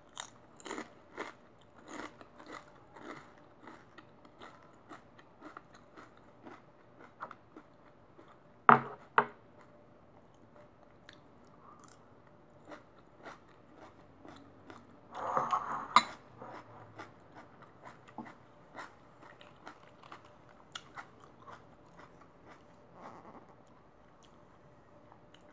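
Close-up chewing and crunching of crisp potato chips, with brief crunches about twice a second at first and then more scattered. A few louder, sharper sounds stand out about nine seconds and again about sixteen seconds in.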